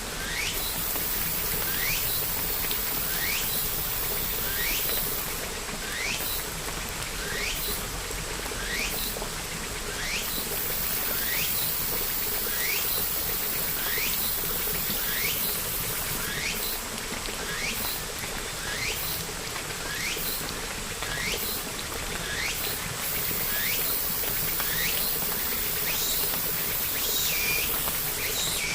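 Steady rainfall, with a small creature's short falling chirp repeating about once every 0.8 s over it. Near the end a few different, flatter calls join in.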